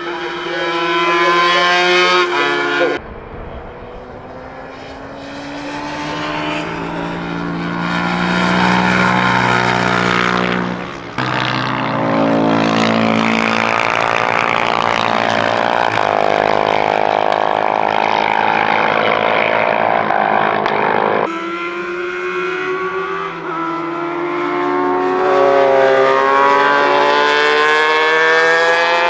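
Classic racing motorcycle engines at full throttle on track, their notes rising under acceleration and falling as bikes pass and change gear. The sound breaks off and changes abruptly three times, and near the end a bike's note climbs steadily as it accelerates.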